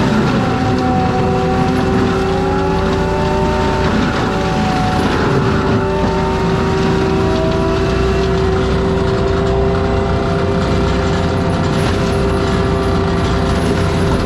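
ASV RT-120F forestry track loader with a mulcher head, running hard and steady. The engine and mulcher make a continuous drone with whining tones that slide up and down in pitch.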